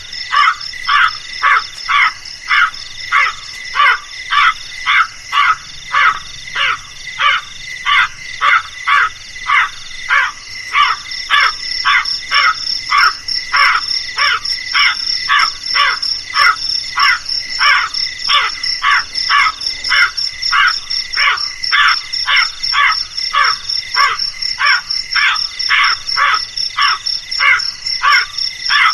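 Crows calling over and over, short calls about twice a second in a steady run, over a continuous high insect-like buzz.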